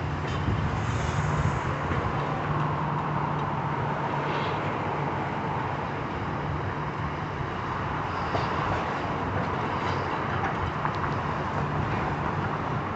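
Steady engine noise, a low hum under a broad mid-range rumble, with a few faint clicks scattered through it.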